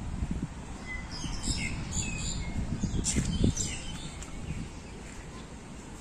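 Birds chirping, a cluster of short high calls between about one and three and a half seconds in, over a low rumble.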